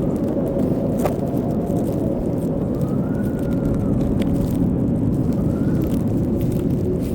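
Blizzard wind blowing steadily and heavily, with a faint whistle that rises and falls a few times and a couple of light clicks.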